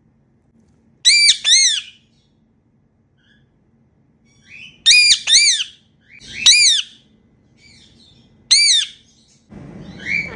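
Indian ringneck parakeet giving short, sharp squawks: about six calls, in pairs and singles, each rising and then falling in pitch.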